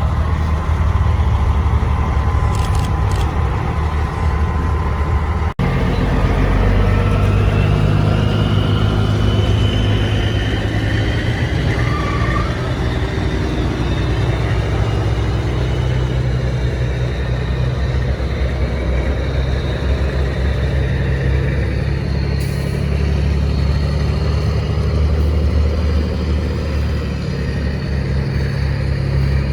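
Heavy truck diesel engine running with a steady low rumble, cut by a momentary break about five and a half seconds in.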